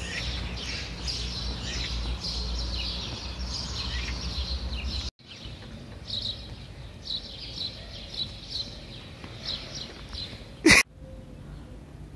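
Small birds chirping repeatedly in short high calls, over a low rumble that cuts off abruptly about five seconds in. A single loud, brief burst near the end.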